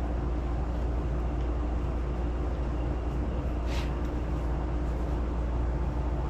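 A steady low mechanical hum with no change in level, broken by a single light click a little under four seconds in.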